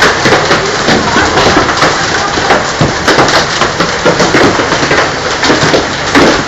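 Heavy hail falling: a dense, loud clatter of hailstones striking hard surfaces, with many sharp individual hits over a steady downpour.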